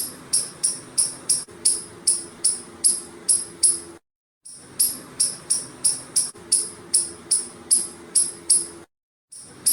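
Squirrel calling with repeated sharp, high-pitched chirps, about three a second. The runs of chirps break off twice into brief total silence.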